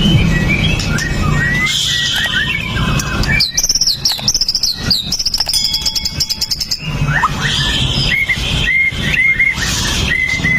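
White-rumped shama singing a varied song of sharp whistled notes and quick sweeps, with a dense high trill in the middle and a run of repeated short rising whistles near the end. A low rumble runs underneath.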